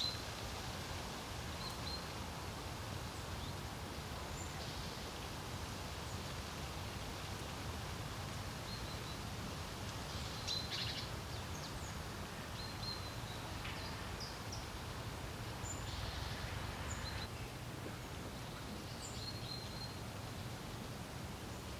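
Steady low rumble of wind, with scattered short, high bird chirps throughout.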